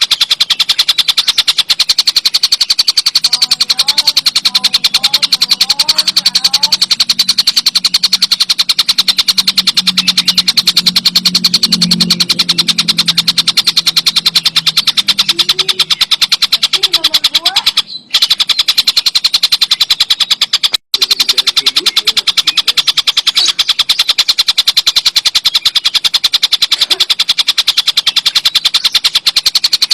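Tengkek buto bird giving a loud, continuous, very fast rattle of clicks, cutting out briefly twice about two-thirds of the way through.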